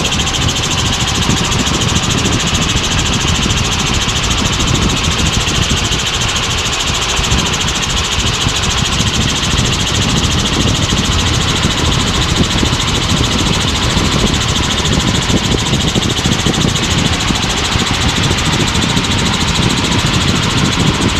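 Helicopter cabin noise in flight: the engine and rotor make a loud, steady drone with a fast, even pulsing.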